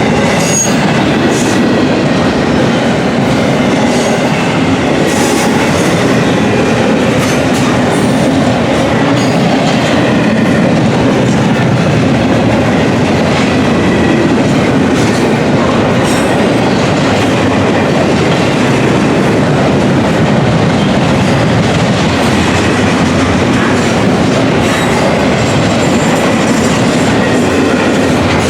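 Freight cars of an intermodal container train rolling past at speed: steel wheels on rail with a steady loud rush and clicks over the rail joints, and a faint wheel squeal.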